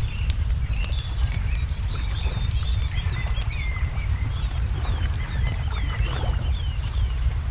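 Wood fire crackling with scattered sharp pops over a steady low rumble, while a songbird repeats short falling chirps, about two a second, through the middle.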